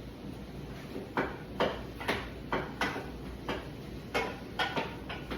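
Utensil stirring onions in a pot, scraping and knocking against the pan in short strokes about twice a second, starting about a second in. The onions are being caramelized and stirred so they don't burn.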